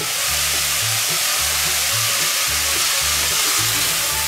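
Mushrooms, carrot strips and spring onions sizzling steadily as they fry hard in a stainless-steel pan.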